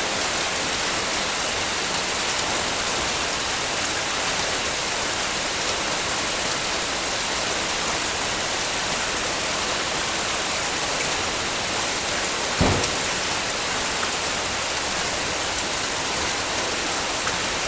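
Heavy rain falling steadily, a dense even hiss. About two-thirds of the way through there is a single short, loud thump.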